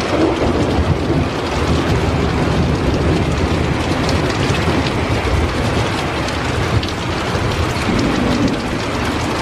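Heavy rain pouring steadily during a thunderstorm, with a low rumble of thunder underneath.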